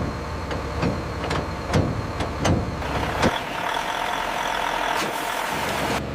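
Industrial wood chipper running steadily, with a series of sharp irregular knocks and clunks as wood is fed through it.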